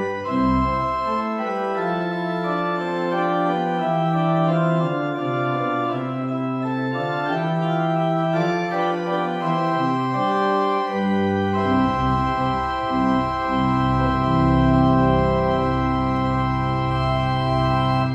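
Organ music: sustained chords moving slowly from one to the next, with a deep bass line joining about two-thirds of the way through, as in a closing postlude.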